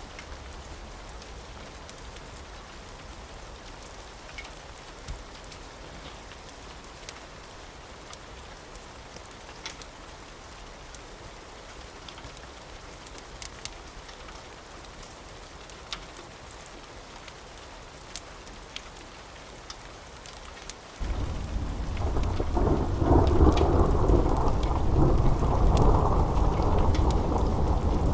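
Steady rain with scattered sharp ticks of drops. About 21 seconds in, thunder breaks in suddenly and keeps rumbling, much louder than the rain.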